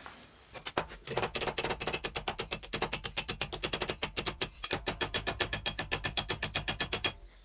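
Rapid, even clicking, about seven clicks a second, with a short break about four and a half seconds in.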